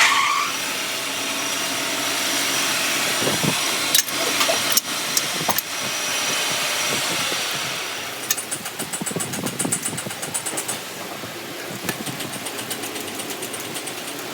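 A motor or engine starts abruptly and runs loudly with a steady hiss, then from about eight seconds in it settles into fast, even ticking.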